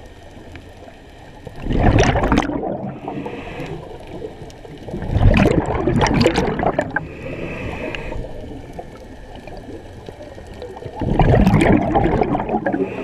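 Scuba diver breathing through a regulator: three long exhalations each release a loud rush of bubbles, and each is followed by a short hissing inhalation through the demand valve.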